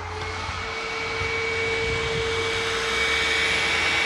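Hoover WindTunnel Plus upright vacuum's motor starting the moment it is plugged in and spinning up, its whine rising briefly and then holding steady over a rush of air, growing louder for about three seconds. It runs even though the power switch is set to off: the switch does nothing and is not cutting power.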